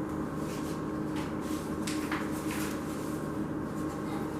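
Several short clicks and rustles of something being handled, over a steady low hum.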